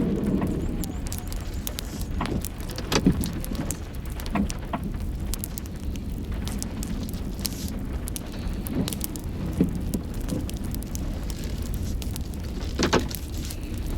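Steady low rumble of a running vehicle with scattered short ticks and knocks over it, the sharpest about three seconds in and again near the end.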